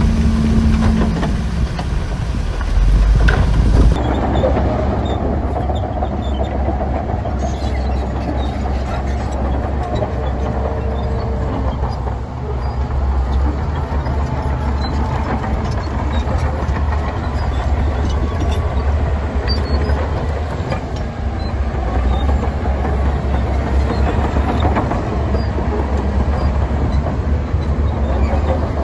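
Heavy diesel earthmoving machinery running steadily, a low engine drone with scattered small clicks and rattles over it. The sound changes abruptly about four seconds in.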